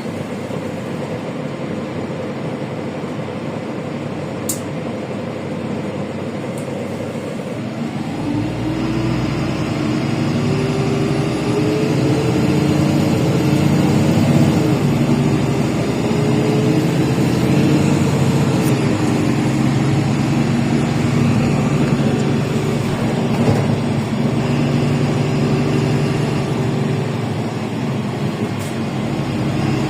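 Interior sound of a LiAZ 5292.65 city bus with its Yuchai engine: a steady low drone, then from about eight seconds in the engine note grows louder and rises in pitch as the bus pulls harder, holding a higher, louder hum to the end.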